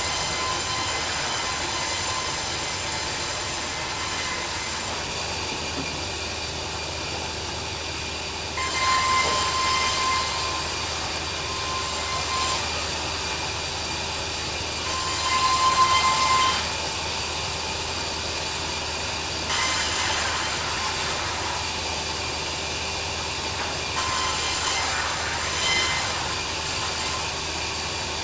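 Band sawmill running steadily with a constant machine whine, with five spells of louder hissing, a few seconds each, as the blade saws through timber.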